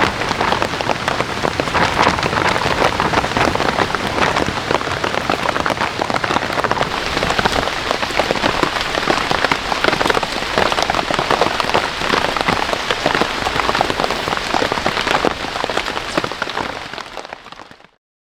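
Rain falling in a dense, steady patter of drops, fading out to silence near the end.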